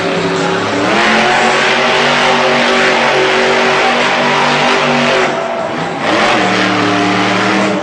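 Grave Digger monster truck's engine running hard at high revs. It eases off briefly about five seconds in, then opens up again.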